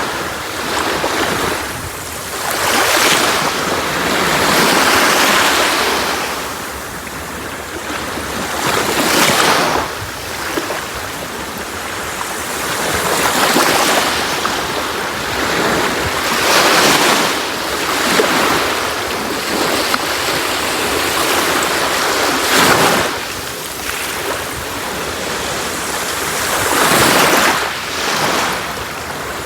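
Sea waves breaking and washing on a shore, one surge of rushing water every three to five seconds.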